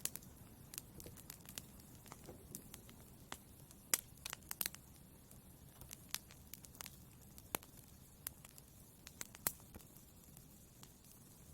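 Wood fire burning in a fireplace: a low steady hiss with irregular sharp crackles and pops.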